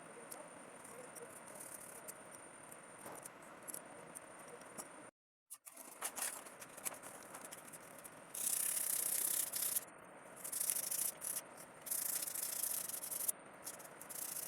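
Scratchy rubbing or scraping in bursts of about a second each, loud in the second half, after a quiet stretch with a faint steady high whine.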